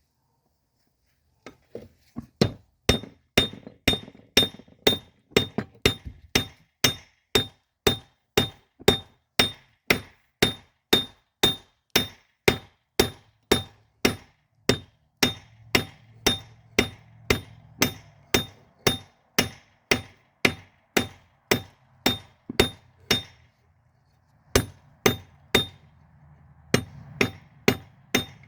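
Hand hammer striking a railroad spike's steel on an anvil while forging a knife blade, about two ringing blows a second. The blows break off briefly near the end, then start again.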